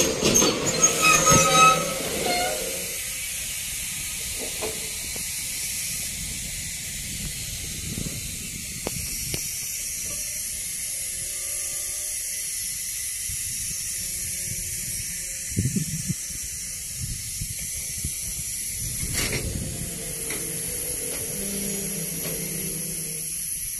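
Freight train of open-top wagons squealing as it brakes to a halt in the first two or three seconds, then standing with a steady hiss, broken by two brief knocks.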